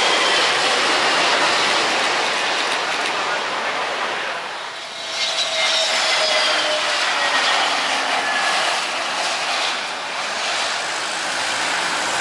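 Jet airliner passing close on its landing approach: a loud engine roar with whining tones that slide down in pitch. The roar dips briefly about five seconds in, then returns.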